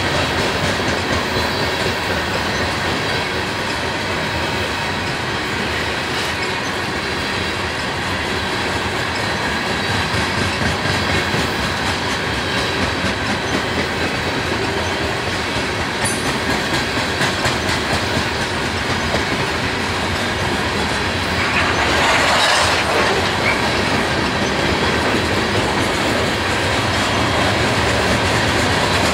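Coal train hopper cars rolling past, their steel wheels clicking rhythmically over the rail joints in a steady clatter. About three-quarters of the way through there is a louder burst of wheel-on-rail noise lasting about a second.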